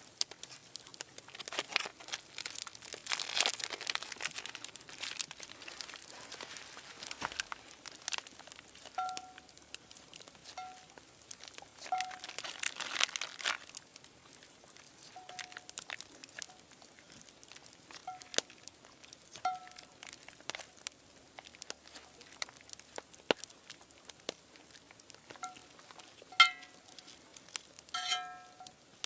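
Crinkling and crackling with many sharp clicks, with two longer rustling bursts. Short high-pitched whine-like notes come over and over through the second half.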